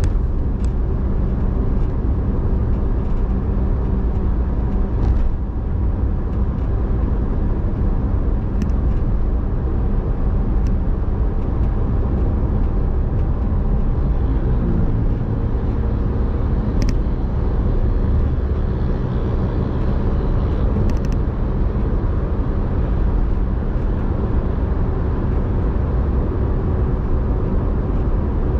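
A car being driven: a steady rumble of engine and road noise, with a couple of faint clicks partway through.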